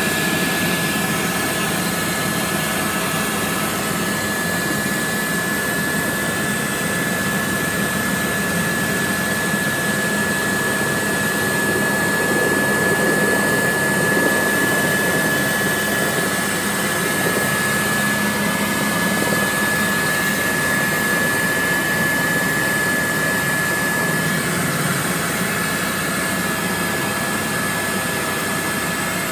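Helicopter in flight heard from inside the cabin: steady loud engine and rotor noise with a thin high whine running through it.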